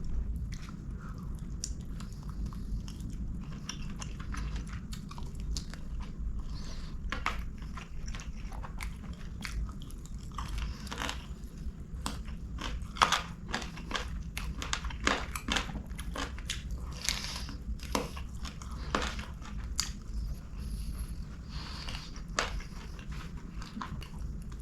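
Close-up eating sounds of string hoppers with curry: chewing and biting with many short, irregular mouth clicks over a low steady hum. One sharper, louder click comes about halfway through.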